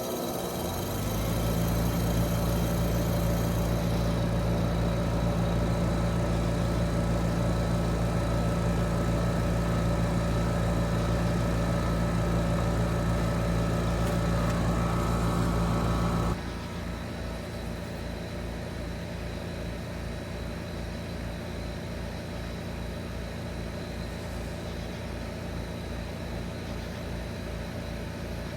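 Heat pump outdoor unit running just after start-up: a steady compressor hum that builds as the fan comes up to speed about a second in. About 16 seconds in, the sound drops abruptly to a quieter steady hum with a regular low pulsing.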